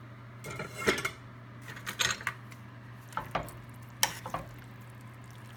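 A metal utensil clattering and scraping against a skillet while spaghetti is mixed into creamy Alfredo sauce, in a few separate clinks about a second apart, over a steady low hum.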